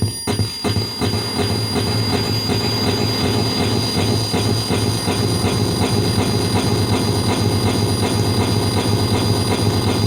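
PT2399 delay effect with its repeats piled up into a dense, loud, rhythmic wash of noise, heavy in the low end, with a steady high whine over it.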